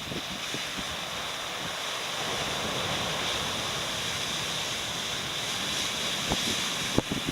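Heavy typhoon surf: high waves breaking in a steady, continuous rush that swells a little through the middle, with wind on the microphone. A few sharp knocks come near the end.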